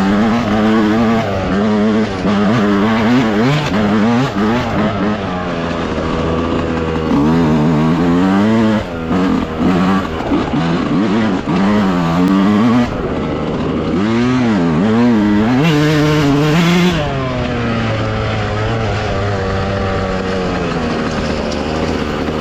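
Dirt bike engine running under riding load, its pitch rising and falling again and again as the throttle is opened and closed.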